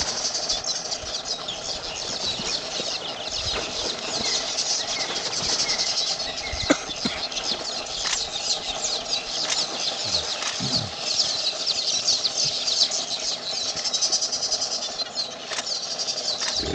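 Continuous dense high-pitched chirping of a wild animal chorus, with a few brief knocks, the sharpest about seven seconds in.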